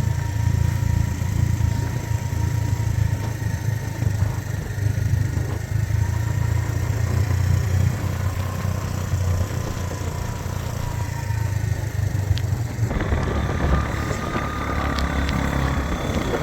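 Motor vehicle driving, its engine and road noise making a steady low rumble. About 13 seconds in, a hissing noise grows louder over it.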